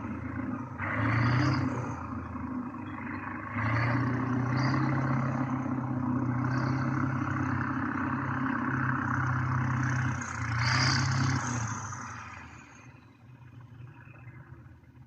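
Kirovets K-700 tractor's diesel engine running, its sound rising and falling in spells, then dying away about twelve seconds in.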